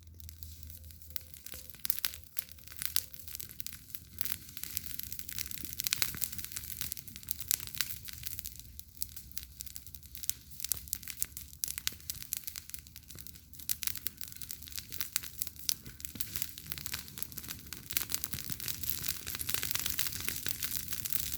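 Campfire crackling: burning wood giving off an irregular run of sharp pops and snaps over a soft hiss, which grow denser and louder near the end.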